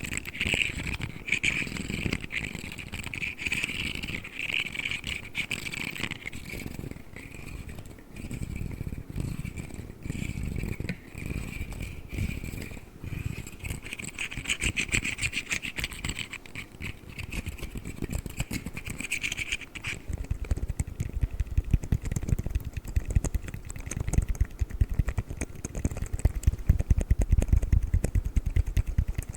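Articulated plastic fidget slug toys handled close to the microphone, their segments rubbing and clicking. About two-thirds of the way in, the sound turns to a dense run of rapid clicking and rattling.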